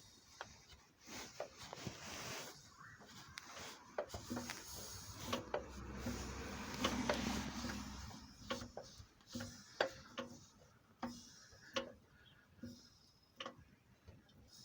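ZMZ-402 engine, not running, with its crankshaft rocked back and forth by hand: sharp metallic knocks come about every half to three-quarters of a second, after a stretch of scraping in the first half. The knock is presumably play in a worn piston-pin (small-end) bushing in one of the connecting rods.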